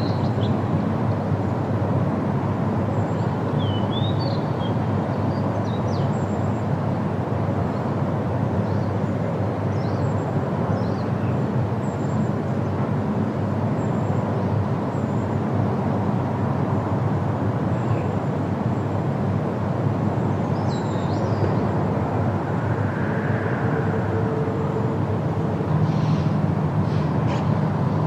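Steady rushing wind through leafy trees, with faint, brief bird chirps now and then.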